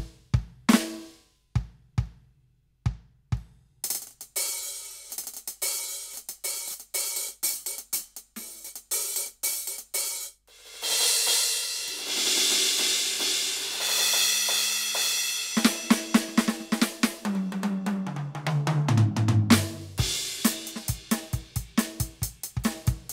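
Roland TD-17KVX electronic drum kit played through its sound module. A few scattered hits open, then quick hi-hat and cymbal strokes, a sustained cymbal crash, a tom fill stepping down in pitch, and fast drumming again near the end.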